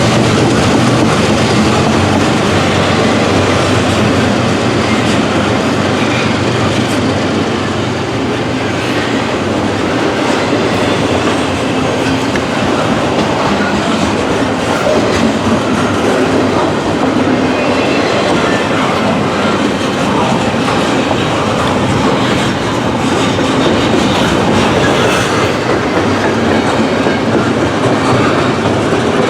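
Norfolk Southern freight train rolling by, its cars' wheels clattering steadily over the rails.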